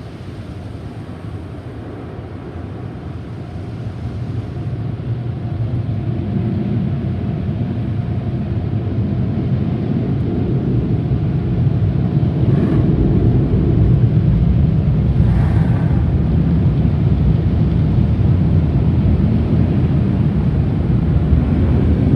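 Steady low rumble of car-wash equipment, growing louder over the first ten seconds or so and then holding, with two short hisses partway through.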